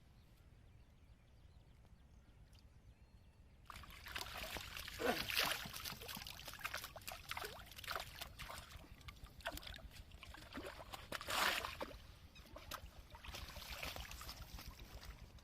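Water splashing and sloshing, with irregular splashes and trickling that begin suddenly about four seconds in and swell and fade several times.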